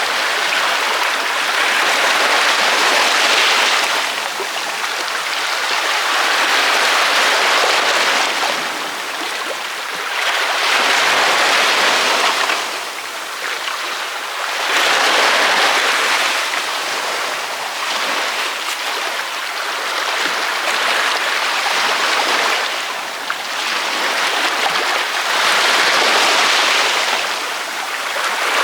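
Ocean waves breaking on a beach: a steady wash of surf that swells and eases again about every four to six seconds.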